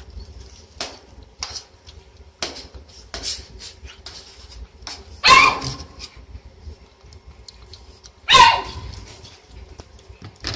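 French bulldog puppy eating, with light clicks and clatter against the bowl, and two loud short barks about five and eight seconds in, each falling in pitch.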